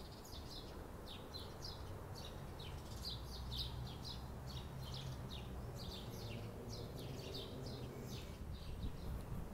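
Small birds chirping, a running series of short falling chirps every fraction of a second, over a low steady rumble.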